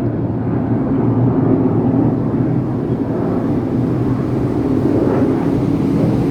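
Scania K230UB city bus's diesel engine running under way, a steady low drone mixed with road noise.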